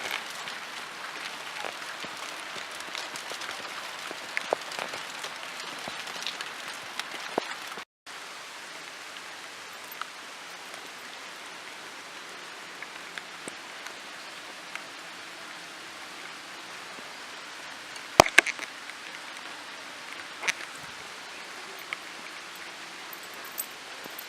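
Steady rain falling, with scattered sharp drip ticks; the loudest pair of ticks comes about three quarters of the way through. The sound cuts out completely for a moment about a third of the way in.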